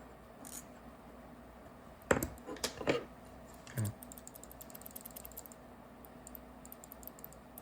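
Small metal parts and a hand tool clicking and tapping while working on a paintball marker's trigger: a cluster of sharp clicks about two seconds in, a duller knock near four seconds, then a run of faint quick ticks.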